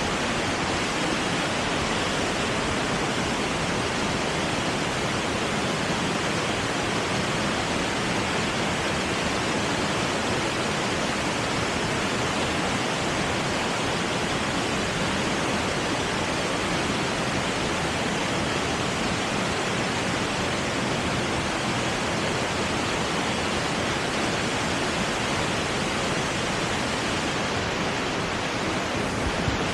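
Lower South Falls, a high waterfall, pouring into its plunge pool: a steady, even rush of falling water.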